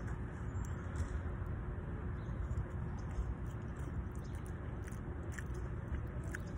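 A person chewing a mouthful of chili cheese fries close to the microphone, over a steady low rumble, with a few faint clicks near the end.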